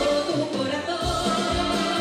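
Live Latin band music, a grupero-style dance band, with a steady beat.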